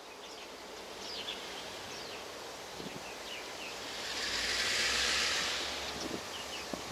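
Small birds chirping repeatedly in short, quick, falling notes over steady outdoor background noise, with a hissing swell in the middle that is the loudest part and a faint low rumble from about four seconds in.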